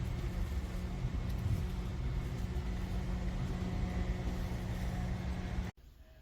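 Small battery-powered clip-on desk fan running: a steady whir with a constant hum, which stops abruptly about five and a half seconds in.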